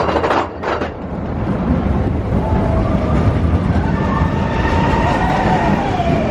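Expedition Everest roller coaster train running along its track: a steady loud rumble and clatter of wheels on rail, with wavering higher tones over it from about three seconds in.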